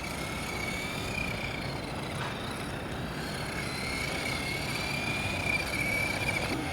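Tamiya TT-01E radio-controlled truck running on tarmac: a thin electric-motor whine that rises and falls with speed through a slalom, over a steady rush of tyre and road noise.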